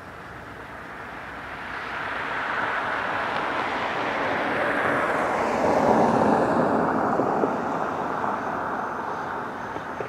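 Twin electric ducted fans of a Freewing AL37 (Boeing 737) RC jet model flying past. A steady whoosh builds, is loudest a little past the middle, then fades, with its high hiss sliding down in pitch as it goes by.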